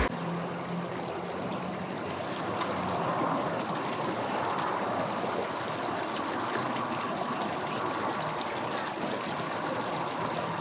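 Steady rushing, water-like noise with no clear events, and a faint low engine hum in the first few seconds.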